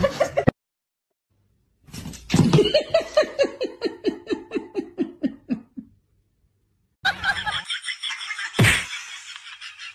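A long laugh in quick regular pulses, about four a second, falling in pitch and fading out over about four seconds. Later comes a stretch of noisy sound with one sharp knock.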